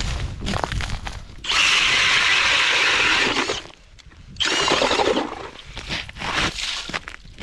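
Ice auger boring a hole through the ice: a spell of grinding about two seconds long, then a shorter one after a brief pause, with crunching and scraping of ice around them.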